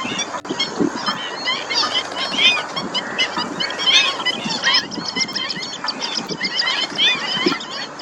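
A flock of black-winged stilts calling nonstop: many short, sharp, yelping calls overlapping into a busy chorus, the noise of birds squabbling over territory.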